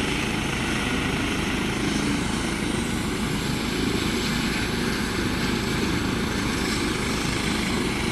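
Air ambulance helicopter sitting on the ground with its engine running and rotor turning, a steady, even noise.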